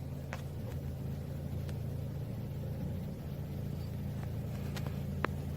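Car engine running with a steady low hum, heard from inside the cabin. A few light clicks or ticks sound over it, the sharpest one near the end.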